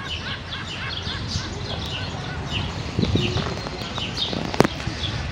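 House sparrows chirping, many short chirps overlapping, with a sharp click about four and a half seconds in.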